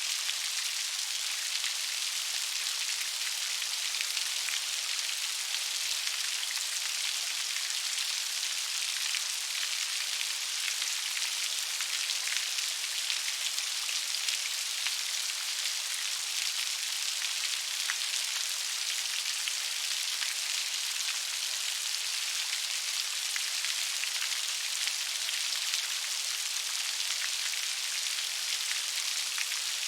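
Steady gentle rain: an even patter of many fine drops on a surface, with no rumble underneath.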